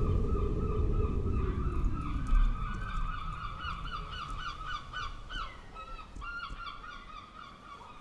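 Honking bird calls, steady at first, then breaking into a quick run of repeated notes in the middle and tailing off toward the end. Under them, a low wind rumble fades away over the first few seconds.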